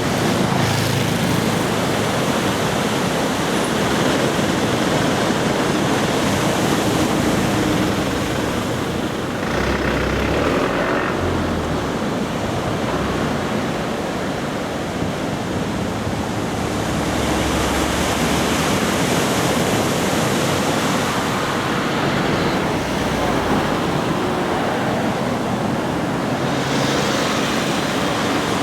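Continuous roar of surf breaking on a beach under a typhoon swell, swelling louder twice in the second half.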